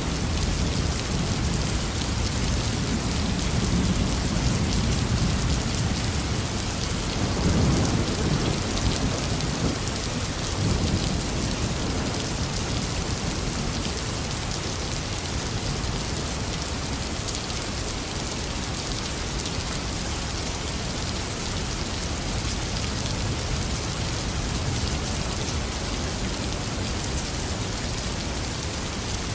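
Heavy rain falling steadily, with a low rumble of thunder over the first ten seconds or so that swells once and fades away.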